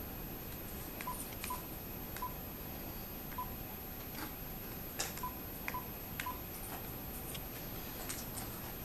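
Phone keypad beeping as a number is dialed: a string of short, irregularly spaced key beeps with faint clicks.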